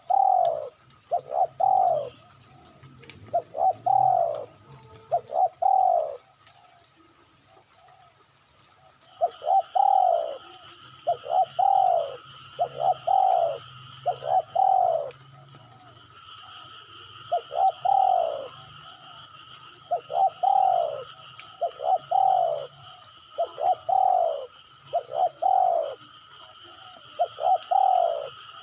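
Spotted dove (derkuku) cooing: phrases of several coos, each note dropping in pitch, repeated with short pauses between phrases. A steady high-pitched buzz runs beneath the calls from about a third of the way in.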